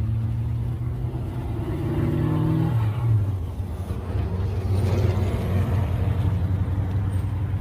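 A car engine revving as the car accelerates away, its pitch rising for about three seconds, then a rush of noise as it passes, over a steady low rumble of idling engines.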